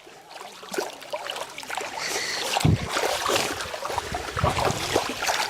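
Water sloshing and splashing irregularly as people wade through a shallow pond, hauling a fishing net; the splashing grows louder about two seconds in.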